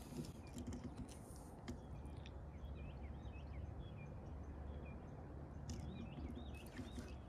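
Faint bird chirps, a run of short hooked notes in the middle and another near the end, over a steady low background rumble, with a few light clicks.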